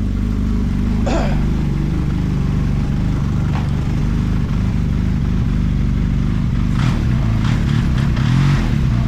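A 2013 Arctic Cat turbo snowmobile engine idling steadily. The throttle is bumped a couple of times near the end, briefly raising the revs.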